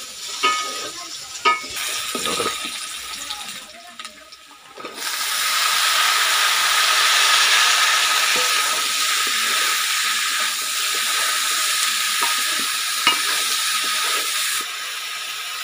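Chopped ridge gourd and potatoes frying in hot oil in a wok, stirred with a spatula. A few sharp knocks of the spatula on the pan come first, then about five seconds in a loud, steady sizzle starts as the gourd goes into the oil and carries on under the stirring.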